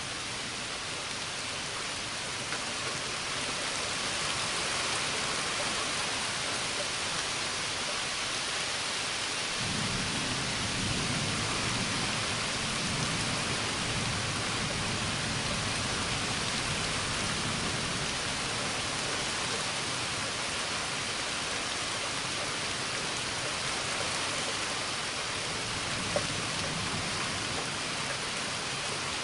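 Steady heavy rain falling during a thunderstorm. About a third of the way in, a long low rumble of thunder sets in under the rain and fades out over about ten seconds.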